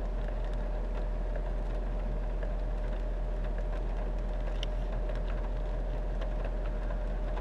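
Steady low drone of the Mustang GT's 5.0-litre Coyote V8 idling, heard from inside the cabin, with a faint steady whine above it.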